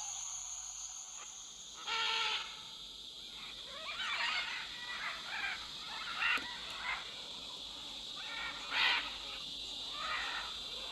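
Tropical forest ambience: a steady high insect drone, with a series of short, harsh bird calls. The loudest calls come about two seconds in and again near nine seconds.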